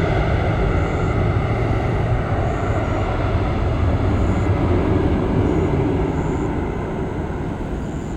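Jet airliner engines, a steady loud rumble that slowly fades as the aircraft moves away.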